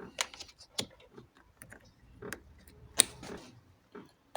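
Light clicks and taps of a test light's probe and clip being placed on relay socket terminals and metal posts. They come irregularly, the sharpest about a second in and about three seconds in.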